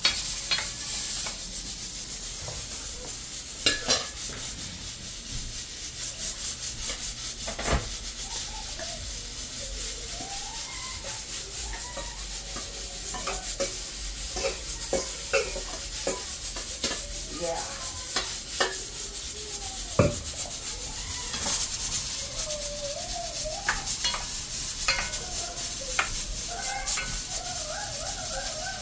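Hands mixing and rubbing seasoning into raw chicken pieces in a bowl: squelching and rubbing, with occasional sharp knocks of the bowl or a utensil, over a steady hiss.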